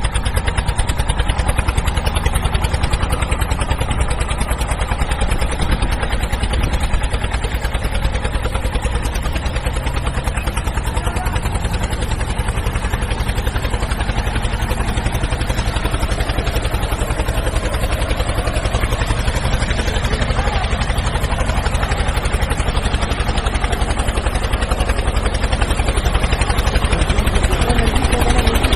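A motor vehicle engine running steadily, with a rapid, even pulse.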